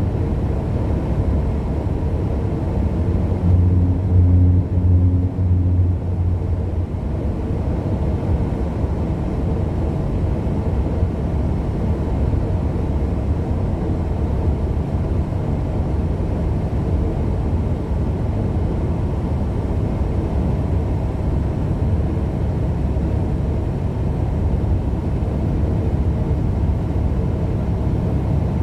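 Steady engine and road drone heard inside a truck cab while driving, with a louder pulsing low hum for a few seconds about four seconds in.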